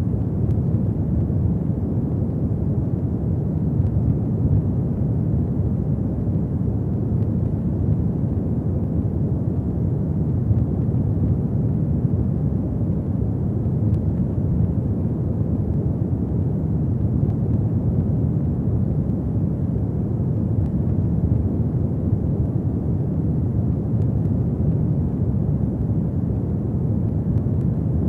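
Fire burning in a fireplace: a steady low rumble with a few faint crackles.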